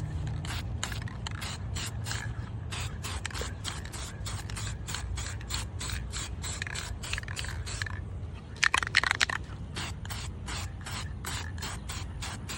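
Aerosol spray-paint can spraying in many short, quick bursts, with a louder stretch about nine seconds in.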